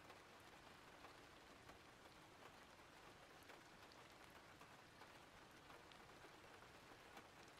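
Faint, steady recorded rain: an even hiss with scattered taps of individual drops.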